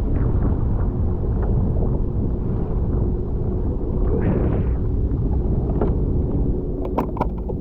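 Jet ski running under way, its engine drone under a heavy, steady low rumble of wind and water on the microphone. A few sharp clicks come near the end.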